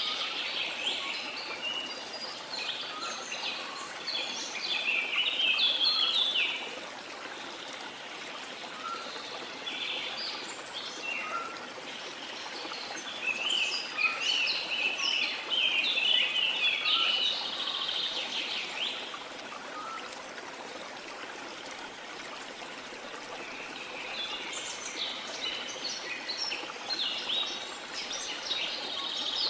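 Birds chirping and singing in busy bouts over the steady rush of a waterfall. The bird song comes and goes, with quieter stretches of water alone around 7 to 10 s and 19 to 24 s.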